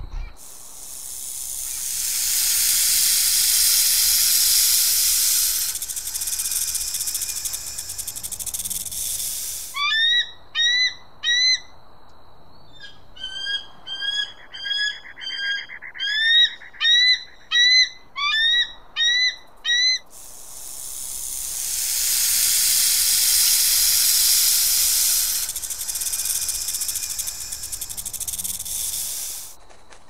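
A long swelling hiss with no pitch, then a run of short chirping bird calls, each hooking upward in pitch, about two a second for ten seconds. After that the same long hiss comes again.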